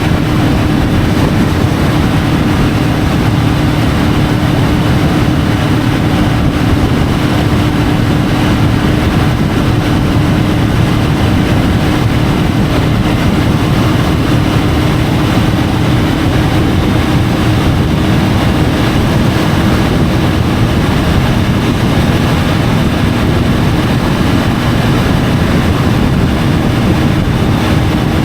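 Triumph Tiger 850 Sport motorcycle cruising at a steady speed: its 888 cc inline-three engine runs at an even pitch under a heavy rush of wind and road noise on the bike-mounted camera's microphone, with no gear changes.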